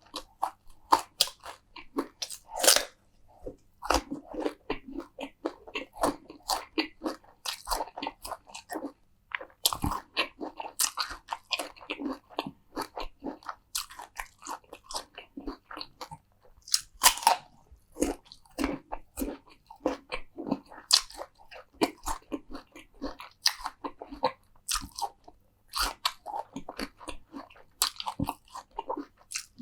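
Close-miked eating: a person biting and chewing crunchy food, a steady run of irregular crisp crunches with a few louder bites.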